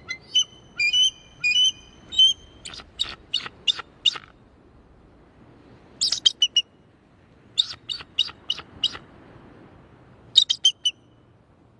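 An eagle calling: bursts of short, high-pitched piping notes given in quick runs, about five groups spread over several seconds.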